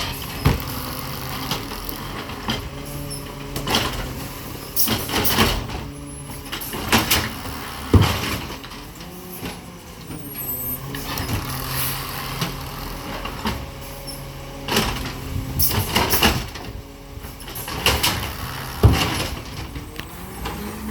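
Garbage truck running nearby, its engine holding steady, with a string of sharp clanks and bangs from its collection work. A rising whine from the engine or hydraulics comes near the end.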